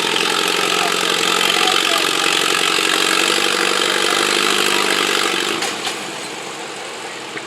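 Pulling tractor's engine running hard at high revs, loud and steady, then dropping off to a lower level about six seconds in.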